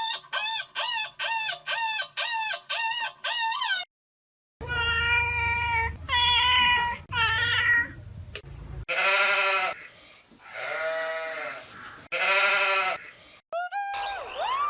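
A sequence of farm-animal calls: a quick run of short pitched calls, about three a second, then after a brief pause several longer, wavering calls typical of goats or sheep.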